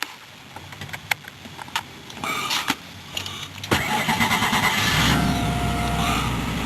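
2003 Ford Taurus cold start: a few clicks, then the starter cranks briefly about three and a half seconds in, and the engine catches and settles into a steady idle.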